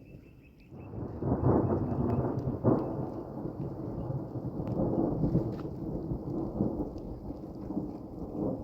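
Thunder breaking suddenly under a second in and rolling on as a long, uneven rumble, loudest in two surges soon after it starts, over the hiss of heavy rain.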